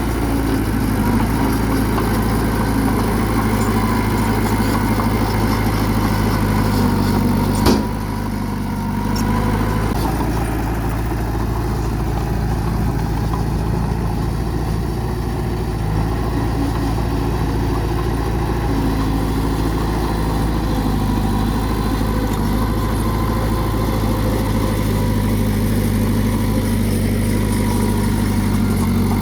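Bulldozer's diesel engine running steadily, with one sharp clank about eight seconds in, after which the engine briefly drops in level before picking up again.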